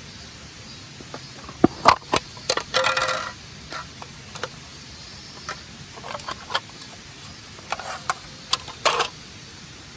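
Scattered sharp clicks and knocks, several in quick pairs, with one brief ringing clink about three seconds in, over a steady hiss.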